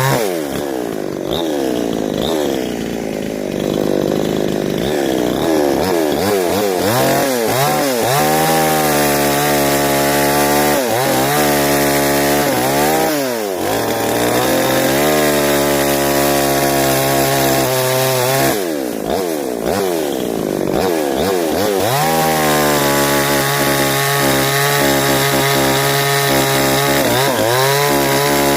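Two-stroke chainsaw running at high revs while cutting wood. Its pitch repeatedly sags and climbs back, with steady stretches between.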